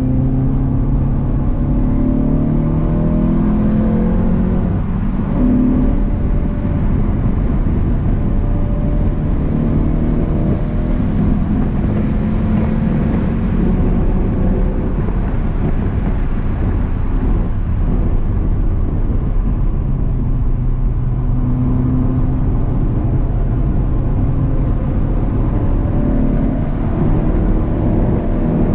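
Renault Clio 182's 2.0-litre four-cylinder engine heard from inside the cabin under hard acceleration on track, its pitch climbing over the first few seconds and then dropping sharply about five seconds in. It runs on steadily and climbs again near the end, over constant road and tyre rumble.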